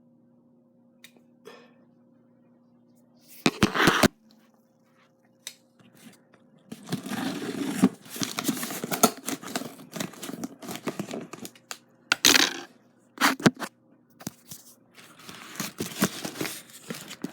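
A package being torn and crinkled open by hand: irregular tearing and crumpling of packaging that is hard to open, with louder rips about four and twelve seconds in.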